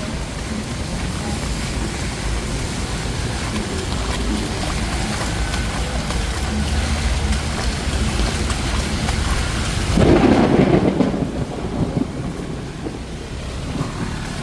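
Heavy rain pouring steadily in a thunderstorm, with a loud peal of thunder rumbling in about ten seconds in and dying away over a couple of seconds.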